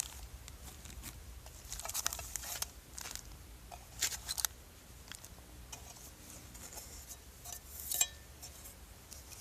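Intermittent rustling, clicks and light clinks of food packaging and cooking gear being handled, in short clusters about two, four and eight seconds in.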